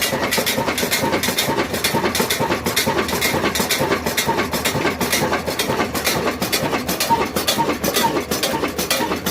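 Old single-cylinder stationary diesel engine running steadily, its exhaust beats and clattering strokes repeating evenly at about three a second.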